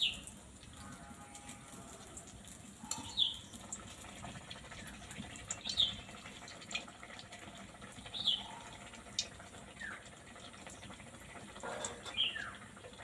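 A bird repeatedly giving short, high, falling chirps, about one every two to three seconds, over the faint sizzle of a fritter frying in a wok of oil.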